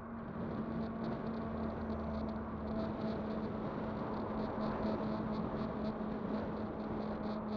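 Kugoo Kirin V5 electric bike on the move: a steady hum from the motor over wind and tyre noise.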